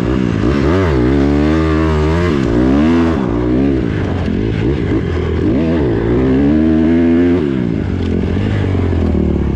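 Honda CRF150R big-wheel pit bike's 150 cc four-stroke single-cylinder engine being ridden hard, revving up and backing off again and again, its pitch climbing and dropping every second or two.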